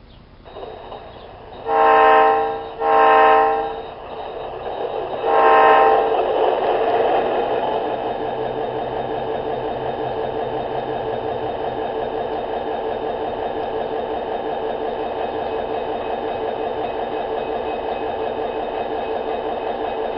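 Train horn sounded in three short blasts, the first two close together and the third after a short pause, then a steady engine drone. This is most likely the onboard sound unit of a G-scale garden railroad locomotive.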